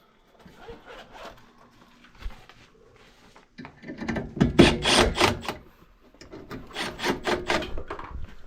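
Rhythmic scraping strokes, about four or five a second, in two bursts of roughly two seconds each: the first starts a little past three seconds in, the second runs near the end.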